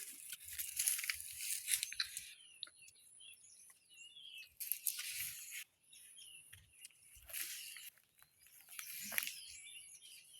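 A person biting and chewing a guava close to the microphone, in a few short crunchy bursts, while small birds chirp in the background.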